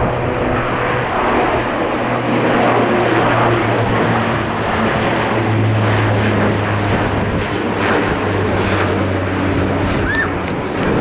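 Bombardier Dash 8 Q400 turboprop taking off, its propellers giving a loud, steady low hum over the rush of engine noise, the hum shifting slightly in pitch about halfway through.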